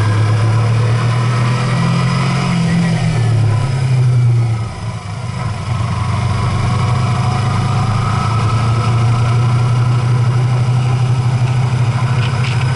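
A vehicle engine runs with a steady low drone while driving. Its sound dips briefly about five seconds in, then settles back into the same steady drone.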